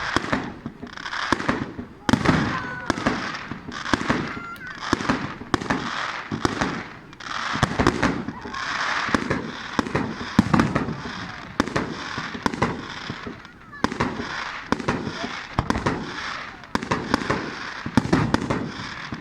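Fireworks bursting again and again, about once a second, with crackling between the bangs.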